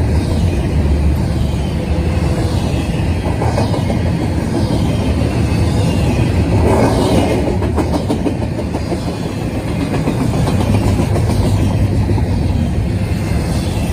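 Double-stack intermodal train's container-laden well cars rolling past: a steady rumble and clatter of steel wheels on rails, briefly louder about halfway through.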